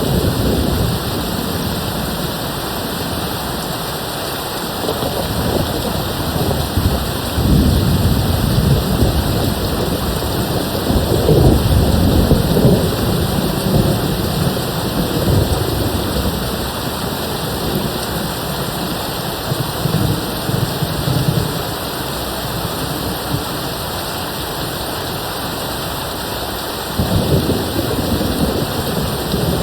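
Steady rain falling, with rolling thunder rumbling in low swells several times: a few seconds in, again at about a third of the way through, and once more near the end.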